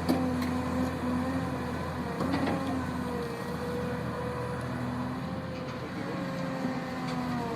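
Heavy construction machine's diesel engine running steadily, with a couple of sharp knocks, one just at the start and one about two seconds in.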